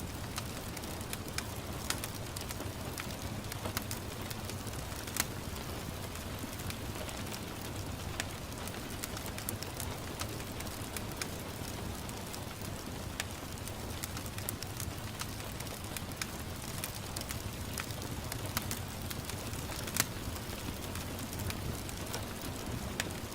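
Wood fire in a fireplace crackling: a steady low rumble under frequent sharp pops, with louder pops about five seconds in and again near twenty seconds.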